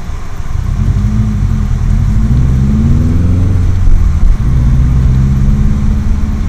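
Subaru WRX STI's turbocharged flat-four engine revving as the car drives off through snow. The pitch rises and falls over the first few seconds, dips briefly about four seconds in, then holds steady and louder.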